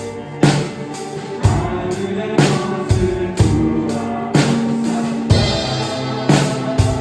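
Drum kit played along to a worship-song backing track: bass drum and snare on a steady beat with hits about once a second and lighter strokes between, cymbals ringing over held notes of the accompaniment.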